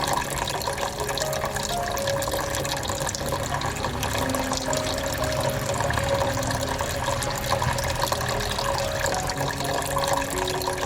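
Water falling steadily from a homemade rain-style tabletop fountain into its basin, circulated by a 5-watt submersible pump.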